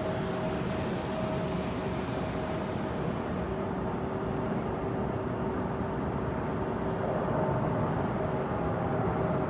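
Jet airliner engines running: a steady rumble with a couple of steady humming tones, growing slightly louder about seven seconds in.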